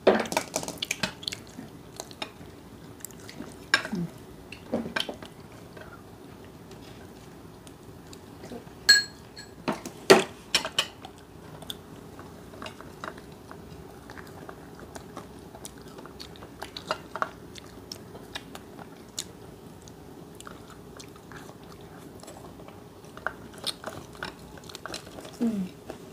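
Chewing and biting into crispy fried chicken, with scattered crunches and a few sharp clicks, the sharpest about four and ten seconds in.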